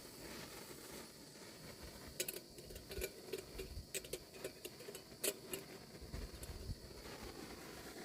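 A string of light clicks and knocks, most of them in the middle of the stretch, from a camping gas stove and kettle being handled while coffee water is put on to boil.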